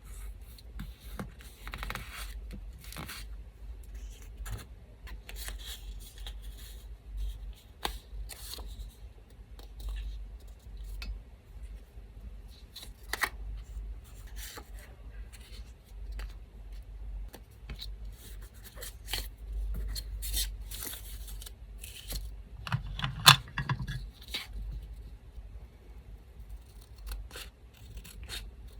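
Scissors snipping paper and small paper scraps being handled and torn, in scattered short bursts, with a louder rustle and knock about three-quarters of the way through. An electric fan hums low underneath.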